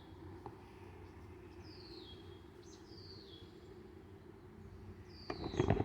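A bird calling three times, each call a thin whistle falling in pitch, over a faint steady outdoor background. A few sharp knocks come near the end.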